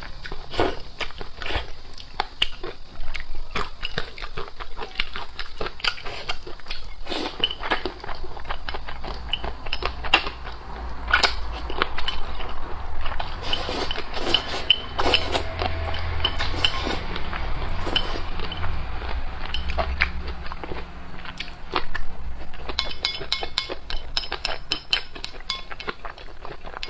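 Noodle eating: steady chewing and biting, with utensils clicking against a bowl now and then.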